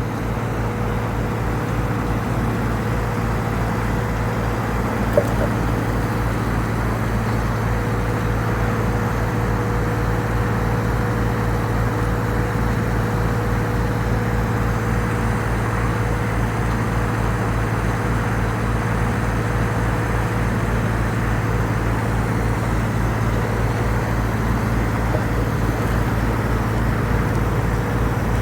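An engine running steadily at an even speed, with one short click about five seconds in.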